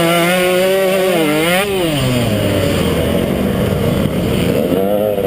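KTM 150XC two-stroke dirt bike engine revving high and fluctuating, then dropping off about two seconds in and picking up revs again near the end.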